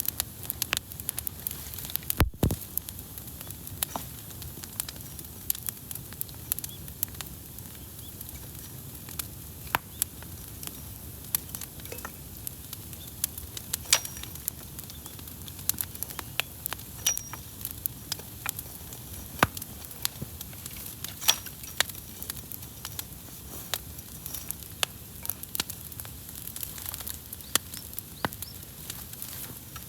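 Wood campfire burning with a steady hiss and frequent sharp crackles and pops from the burning wood. The sound cuts out for a split second about two seconds in.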